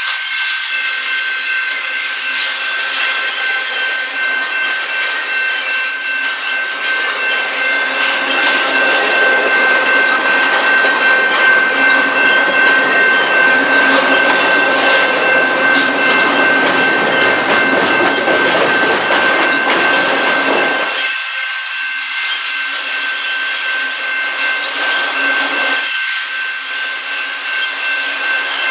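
Long, slow freight train's intermodal well cars and autoracks rolling past with a steady rumble and clatter. It is loudest in the middle and eases about two-thirds of the way through. A steady high-pitched ringing tone holds over it throughout.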